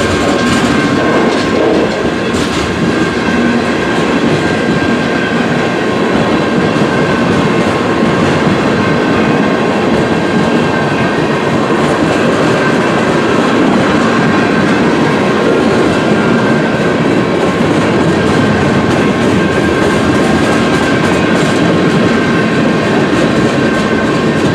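CN freight train rolling steadily past, the cars' wheels clattering over the rail joints, with a faint steady high ringing tone over the rumble.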